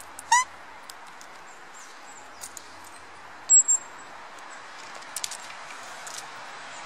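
Small wild songbirds calling near the hand: one short, loud call about a third of a second in, then two sharp high notes about three and a half seconds in, with a few faint ticks over a steady background hiss.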